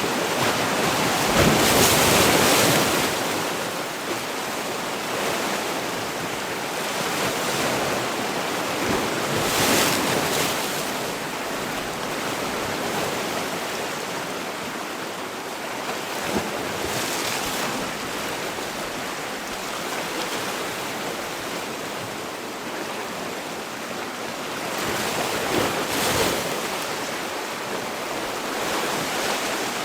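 Sea waves breaking and washing on the shore, a steady rush of surf that swells as each wave comes in, loudest about two seconds in and again near ten and twenty-six seconds.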